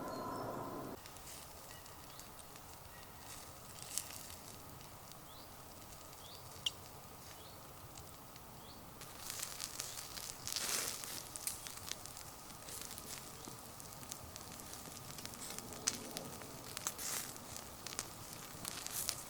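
Campfire crackling with scattered sharp pops, getting busier from about nine seconds in. A steady hum is heard at the very start and stops about a second in.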